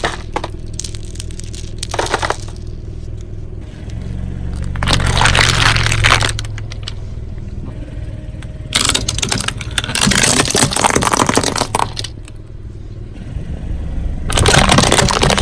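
A car's tyre rolling over objects and crushing them, breaking them up in three long crackling, scraping stretches over the low steady hum of the car running at crawling speed.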